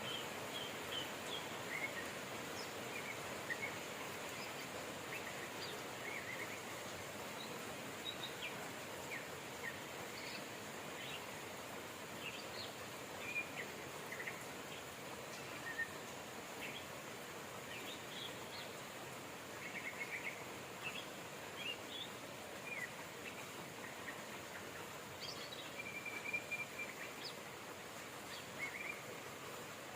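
Steady rain, an even hiss, with small birds chirping in short scattered calls throughout and one longer held note near the end.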